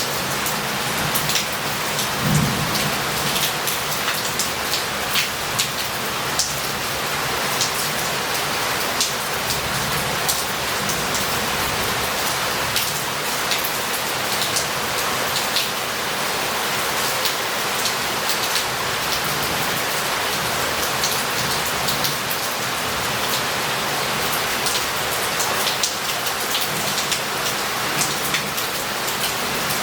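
Heavy rain falling steadily and running off roof tiles and pavement, with many close drips and splashes. Low rumbles of thunder come a few times: just after the start, around ten seconds in, and near the end.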